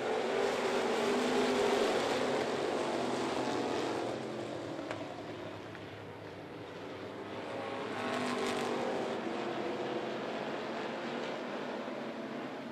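A field of dirt-track race cars accelerating together on a green-flag restart. Their engines are loudest in the first few seconds, fade, then swell again about eight seconds in as the pack comes around.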